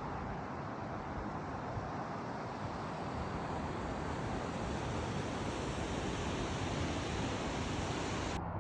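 Steady rushing of river water pouring over the falls, an even roar with no breaks, changing abruptly just before the end.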